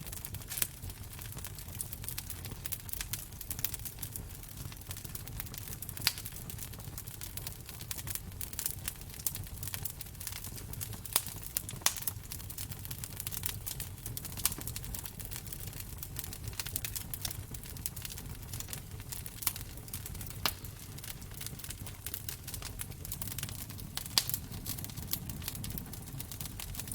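Wood fire crackling in a fireplace: a dense, irregular patter of small crackles over a low steady rumble, with a handful of sharper pops scattered throughout.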